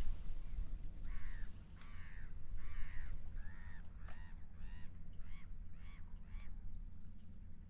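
Seagull calling a quick run of about a dozen short, arched cries, starting about a second in, over a steady low rumble.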